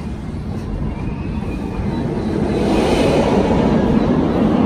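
Steady rolling rumble of a narrow-gauge park train, heard from an open passenger car with wind noise on the microphone; it grows louder about halfway through.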